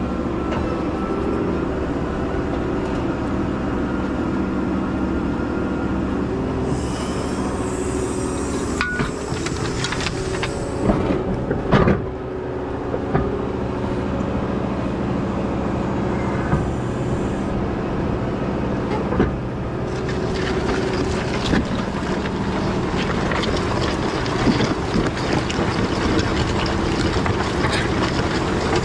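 Large farm tractor engine running steadily under field work, with occasional knocks and clatter from the implement, busier in the last third.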